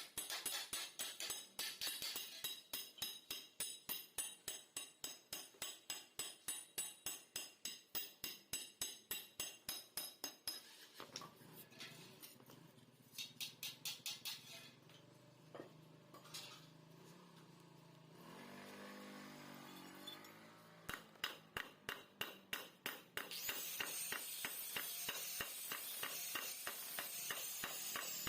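Metal being hammered in quick, even strikes, about four a second, as a steel motorcycle exhaust is worked. The strikes pause for about ten seconds partway through and resume near the end over a steady hiss.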